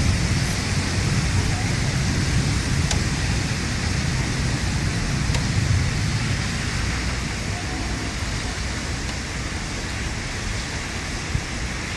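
Heavy thunderstorm rain pouring steadily, with a few sharp ticks of drops. A deep rumble under the rain eases off about halfway through.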